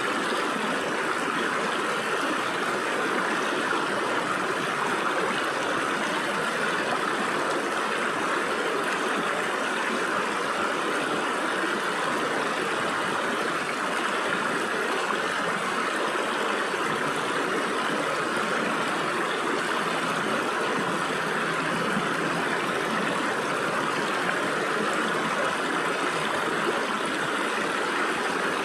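Stream water flowing steadily through gaps between rocks, an even rushing babble.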